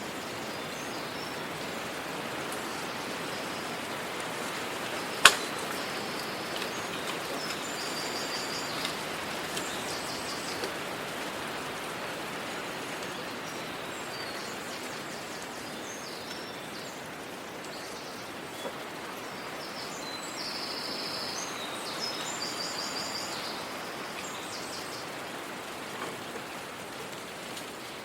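Small birds singing in short high phrases over a steady outdoor hiss, with one sharp click about five seconds in.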